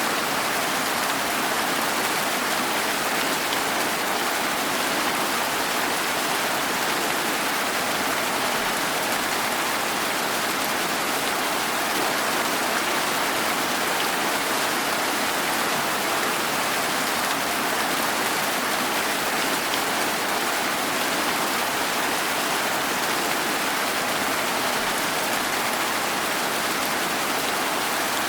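Steady rain falling, an even, unbroken hiss with faint drop ticks and no change in intensity.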